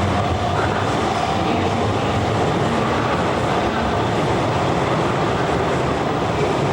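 Hanshin Railway electric train running through the underground station, a steady loud rumble of wheels and motors.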